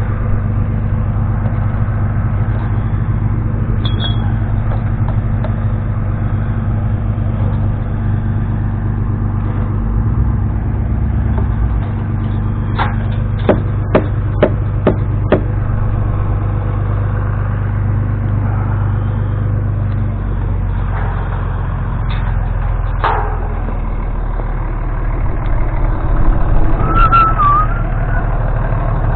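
Vehicle engine idling steadily, with a quick run of about six sharp knocks some thirteen seconds in and a few more later.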